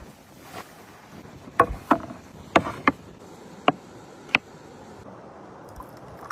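Six sharp knocks or clicks, irregularly spaced over about three seconds, some with a short ring to them, over a faint steady background.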